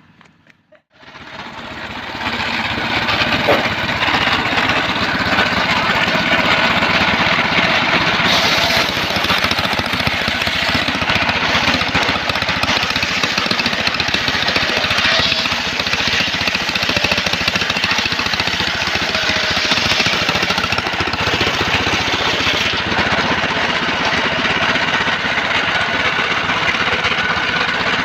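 Engine-driven portable circular sawmill running with a loud, dense mechanical noise that comes in about a second or two in and then holds steady.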